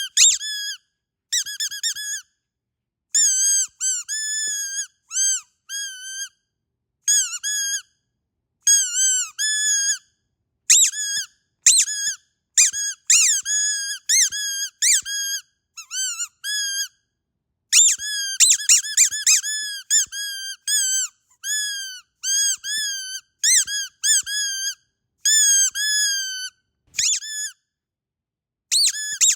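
Squeaky dog toy being squeezed again and again, giving short high squeaks that bend up and down in pitch. The squeaks come in quick runs of several at a time, with brief silent gaps between the runs.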